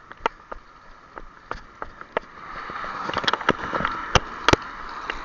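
Irregular crunching footsteps or wheel knocks on a rough path, with a steady rushing noise that swells in about halfway through.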